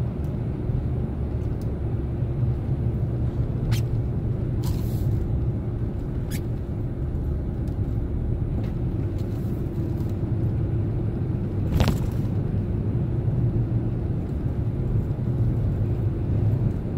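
Steady low rumble of a Chevrolet Silverado pickup driving, heard from inside the cab: engine and tyre noise. A few sharp isolated clicks or knocks, the loudest about twelve seconds in.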